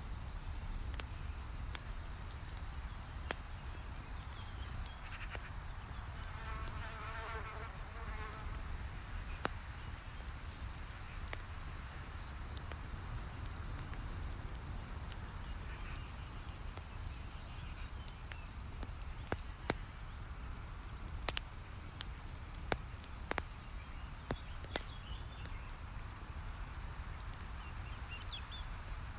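Wood campfire crackling over a steady low rumble, with scattered sharp pops that come thicker past the middle. An insect buzzes past briefly about six to eight seconds in.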